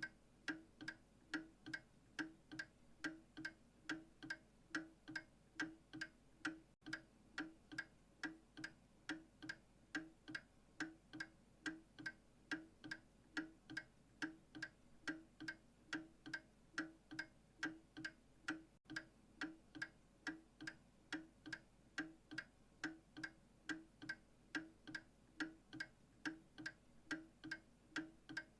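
Clock ticking steadily, about two ticks a second in an even tick-tock rhythm.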